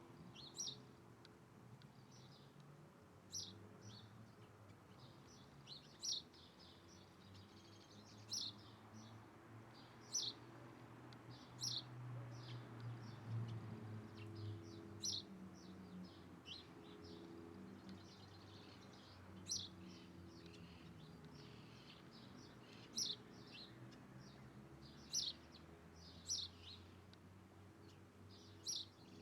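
Birds calling: short, sharp high chirps repeating every two to three seconds, with fainter chirps between them and a faint low steady hum underneath.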